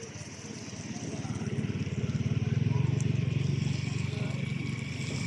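A motor vehicle's engine running close by, growing louder and then easing off slightly, as if passing.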